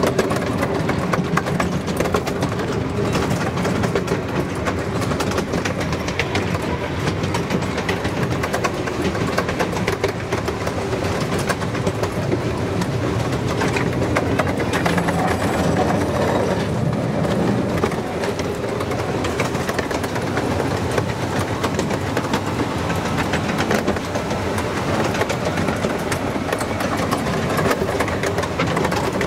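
Miniature railway train running, heard from on board: a steady rumble of wheels on the rails with many fine clicks and a faint steady hum underneath.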